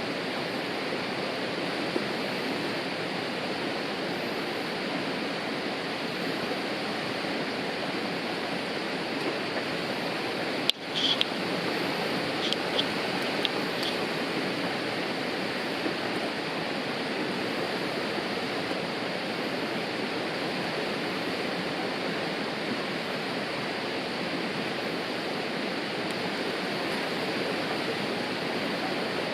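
Steady rushing of a river, running water with no change in strength. About eleven seconds in the sound drops out for an instant, and a few short high-pitched chirps follow.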